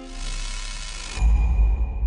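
A rushing whoosh, then about a second in a loud, deep boom that rumbles on: a sound-effect sting closing the advert.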